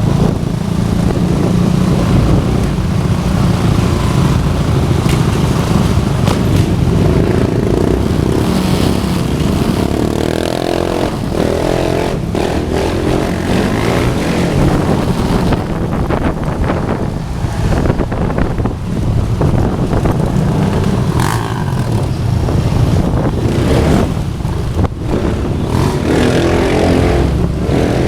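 Motorcycle engines running continuously. Their pitch rises and falls a few times, most clearly about ten seconds in and near the end.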